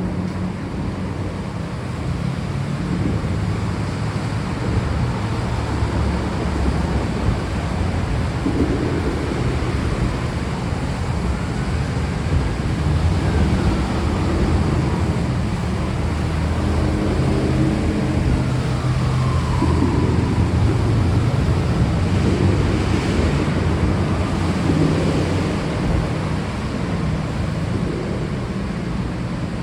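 Steady, heavy rain with a continuous deep rumble underneath.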